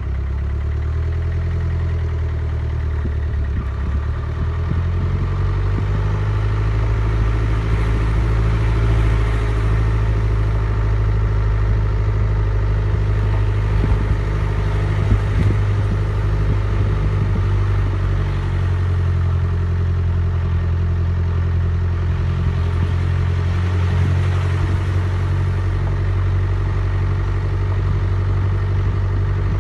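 A vehicle engine running steadily with a low hum, its pitch shifting slightly about four seconds in and again after about eighteen seconds. There are a few light knocks near the middle.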